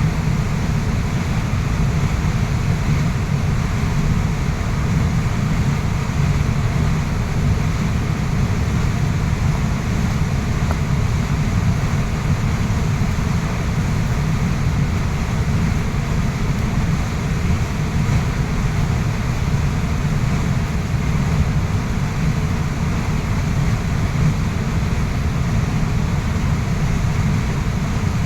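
Waterfall rushing steadily: an unbroken, even wash of falling water, heaviest in the low end.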